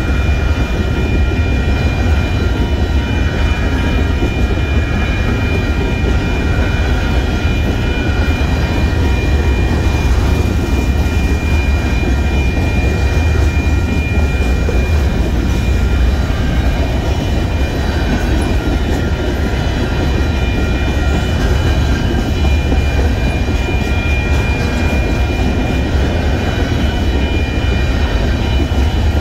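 Loaded covered hopper cars of a Union Pacific grain train rolling past on the rails at a road crossing: a steady, continuous rumble, with a steady high ringing tone over it.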